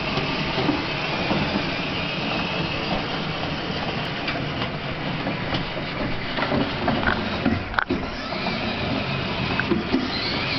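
Child's ride-on toy fire truck running: a steady small electric-motor whine over the rumble of its wheels on the ground, with a few short knocks about two-thirds of the way through.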